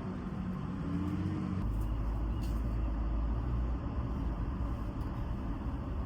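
Steady low rumble of a vehicle in motion, which deepens about a second and a half in.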